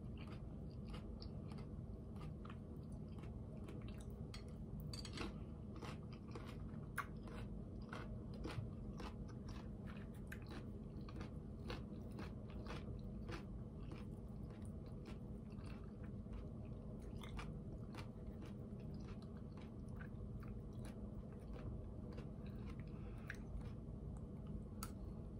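A person eating salad and baked potato with a fork: quiet chewing with frequent small clicks, over a steady low hum.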